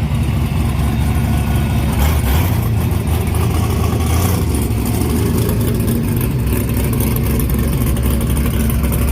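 Drag-race car engines running with a steady, deep rumble.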